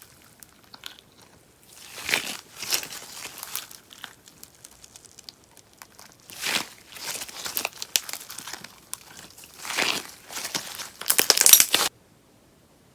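Sponge slime being squeezed and stretched by hand, crackling and popping in repeated bursts, loudest near the end, then stopping abruptly.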